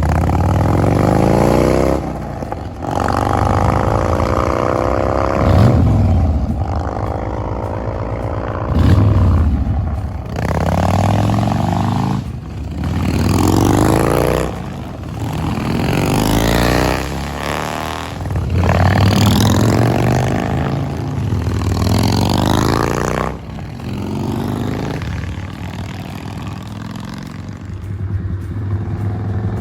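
Harley-Davidson Breakout's V-twin engine and exhaust accelerating hard in repeated runs, the pitch rising through each run and dropping briefly between them as it shifts up.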